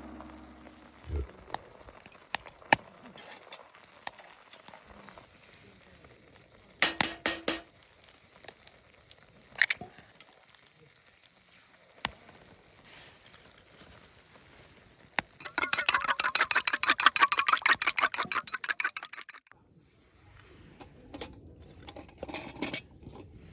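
Cooking utensils clicking and clinking against dishes, with scattered single clicks and a run of rapid, even clicks lasting about four seconds past the middle.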